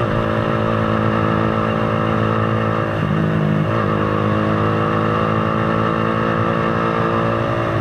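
Motorcycle engine and exhaust running at a steady pitch while riding, with a brief change in pitch about three seconds in.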